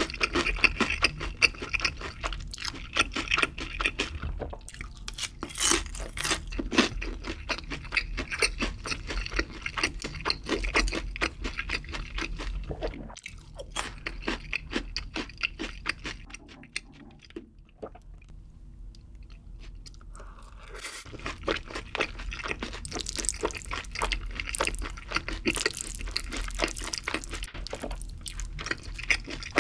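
Close-miked crunching and chewing of crispy fried chicken, crisp crunches thick for the first dozen seconds. The chewing turns quieter for several seconds, then grows louder again near the end.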